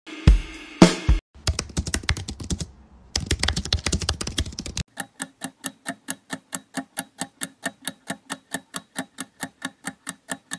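Quiz sound effects: two thumps, then a burst of rapid keyboard-style typing clicks, then a clock ticking evenly about four times a second as a countdown timer runs down.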